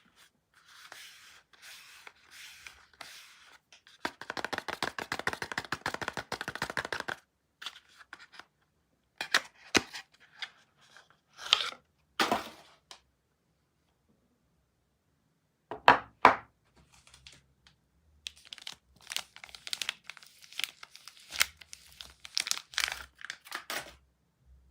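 Soap packaging being unwrapped by hand. The wrapper crinkles, then about four seconds in comes a long, rapid tear lasting some three seconds. A few sharp knocks and taps follow, two of them loud, and the crinkling picks up again near the end.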